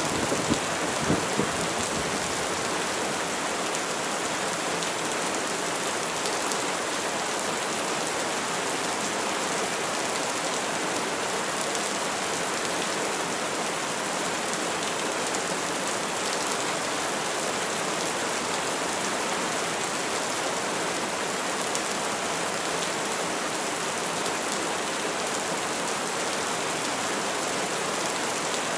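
Steady rain pouring down, with the last crackles of a thunderclap dying away in the first couple of seconds.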